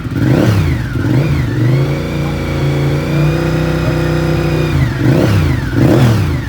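Honda VTR1000 SP-1 (RC51) 90-degree V-twin being free-revved: two quick throttle blips, then a rev held steady for about three seconds, then two more quick blips.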